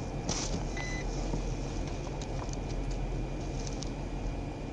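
Steady low hum of an idling vehicle engine, with a few faint clicks and a short high beep just under a second in.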